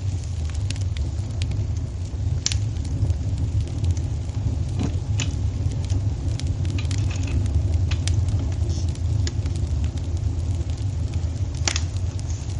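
Wood fire crackling in a fireplace: a steady low rumble of the flames with irregular small pops and snaps, two louder pops about two and a half seconds in and near the end.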